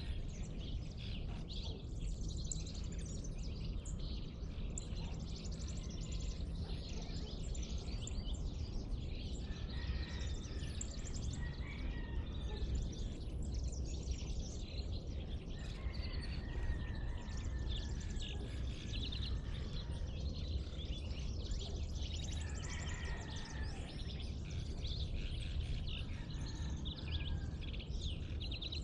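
Several birds chirping and singing in a dawn chorus, many short calls and trills overlapping, over a steady low background rumble.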